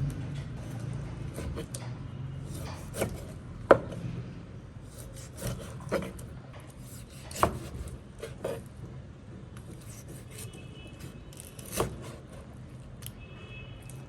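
Food-preparation handling sounds: about seven scattered sharp knocks, the loudest about four seconds in, with rubbing and scraping between them.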